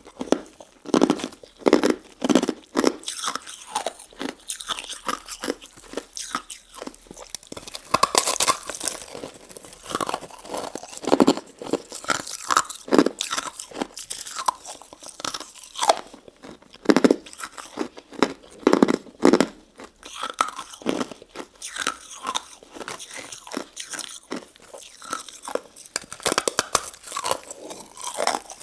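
Close-up eating of a crystal-ice and jelly dessert: irregular crunching and chewing, with frequent sharp crackles.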